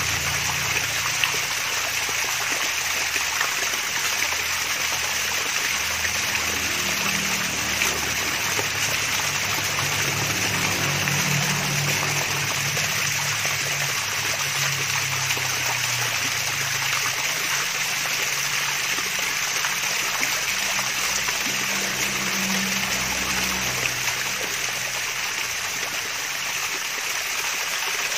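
Water from a mini waterfall splashing and trickling in a steady, unbroken stream.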